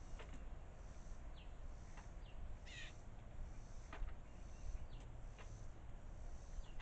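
Birds calling at a feeding bowl: a few short, high chirps that slide downward, and one harsh call near the middle. A few sharp clicks are mixed in.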